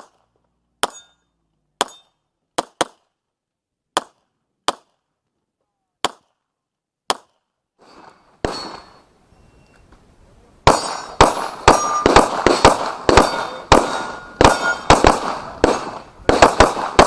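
Handgun shots: single shots about once a second for the first seven seconds, then after a short pause a rapid string of shots, several a second, some followed by a metallic ring.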